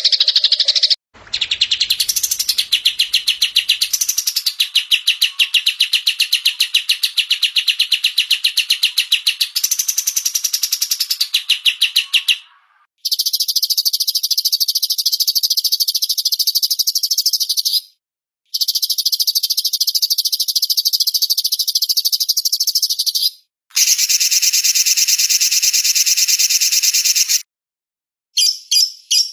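Recorded songbirds chirping in fast runs of repeated high notes, several quick calls a second. It is a string of spliced recordings that change abruptly, with brief silent breaks about a second in, near the middle and near the end.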